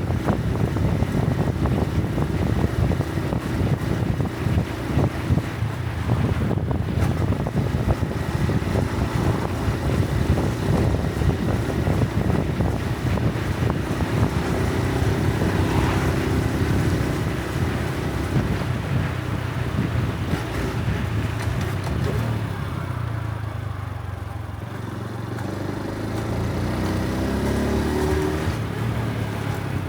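Honda Super Cub C125's single-cylinder engine running under way, with wind rushing over the microphone. It eases off about two-thirds of the way through, then rises in pitch as it accelerates again near the end.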